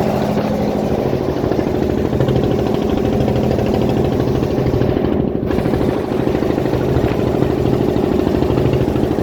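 Fishing boat's engine running steadily, heard from on board.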